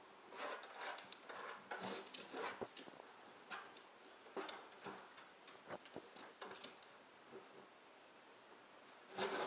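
A dog scratching and tearing at a cardboard box, irregular scrapes and crinkles of the cardboard, with a louder burst of scratching just before the end.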